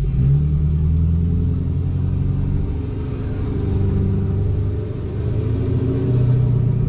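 A Ford F250's 6.7 L Power Stroke turbodiesel V8 running through a 5-inch straight-pipe exhaust, heard from inside the cab with the windows down while driving. It makes a steady low rumble, with wind and road noise rising and falling through the middle.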